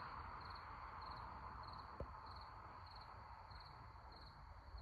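Crickets chirping faintly and steadily, a short high pulsed chirp about three times a second, over a soft hiss, with a faint tap about two seconds in.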